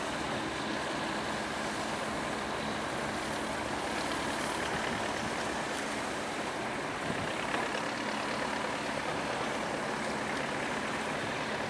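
Large engine running steadily at an even pace, with a constant rush of noise over it.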